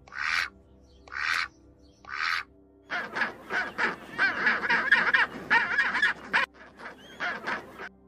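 Ruddy shelduck calling three times, about a second apart. Then a penguin calls in a dense run of calls, which grows quieter near the end.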